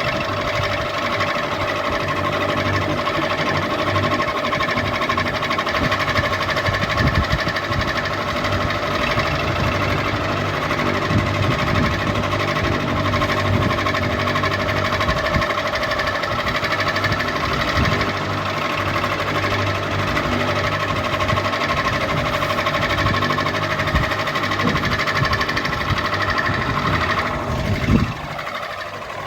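Ceiling fan running steadily: a continuous whirring hum with an irregular low knocking underneath. Near the end the pitch sweeps down and the level dips briefly.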